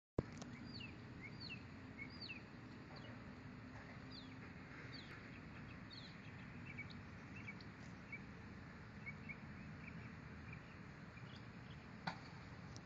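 Faint outdoor ambience with a songbird singing: high chirps that slide downward in pitch, about one and a half a second at first, then sparser short notes. One sharp click comes near the end.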